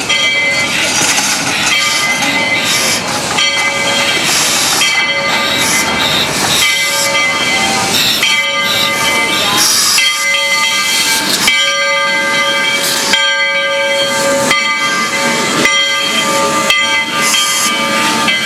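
Narrow-gauge 2-8-0 steam locomotive #40 working hard uphill, its exhaust chuffing and steam hissing. Several high ringing tones sound on and off throughout.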